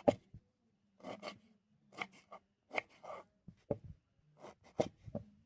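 A run of short scraping or cutting strokes, about eight of them at irregular intervals, over a faint steady low hum.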